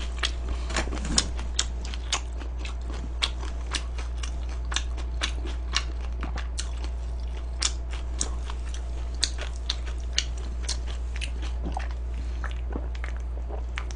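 A person chewing and biting crunchy food close to the microphone, with irregular crisp crunches a few times a second over a steady low hum.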